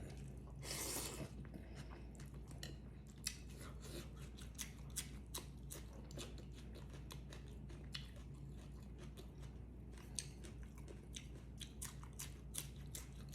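Close-up chewing and crunching of food in the mouth, with many small wet clicks and a louder bite about a second in.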